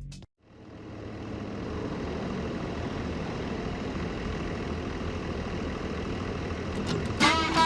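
12-valve Cummins diesel engine in a first-generation Dodge pickup idling steadily, fading in over the first second. Music starts near the end.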